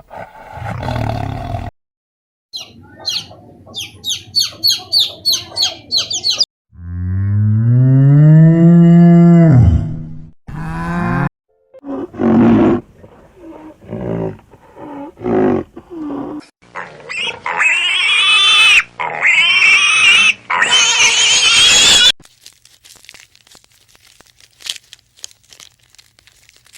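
Several different animal calls one after another. First comes a quick run of high repeated calls, then one long pitched call that rises and falls. After some shorter calls come three loud harsh screeches, followed by a fainter stretch near the end.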